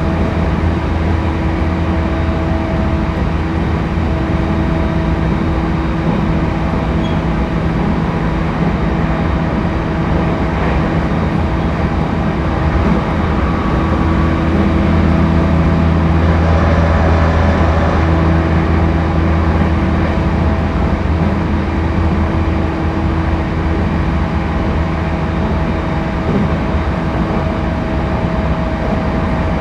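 Interior running noise of a JR East E231 series 1000 (renewed) commuter train at speed: a steady low rumble of wheels on rails with constant hum tones. It grows slightly louder for a few seconds around the middle.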